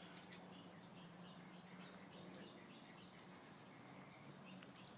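Near silence: a faint steady low hum with a few faint scattered clicks and ticks.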